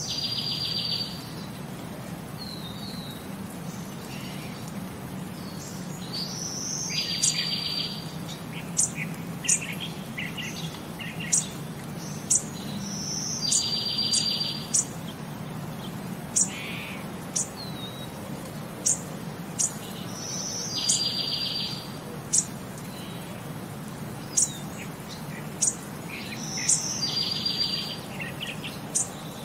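Birdsong: a short buzzy trill repeating about every six and a half seconds, with sharp high chirps in between, over a low steady hum.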